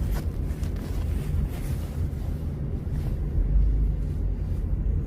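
Steady low rumble of wind buffeting the microphone, with traffic noise from the street.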